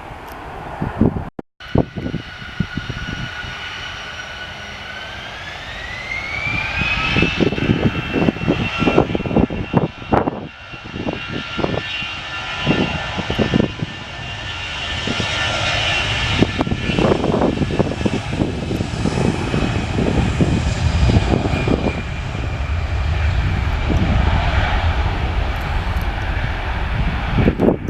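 Airliner's engines spooling up, their whine rising in pitch over a couple of seconds and then holding steady at high power over a deep rumble. Wind buffets the microphone throughout.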